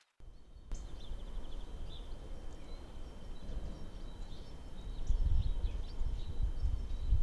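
Low, fluctuating rumble of wind on an outdoor microphone with faint, short bird chirps over it. The rumble grows louder about five seconds in.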